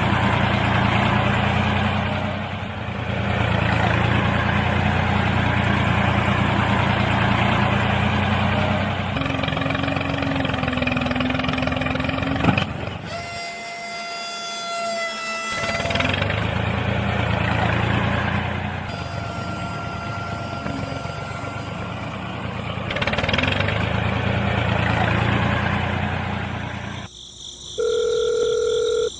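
A mini tractor's motor running steadily, in several clips joined by abrupt cuts, with brief steady tones around the middle and a short electronic tone sequence near the end.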